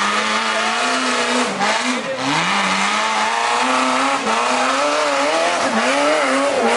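Off-road 4x4's engine revving hard and held high while it climbs a steep hill, its pitch dropping sharply several times and climbing straight back as the throttle comes off and on.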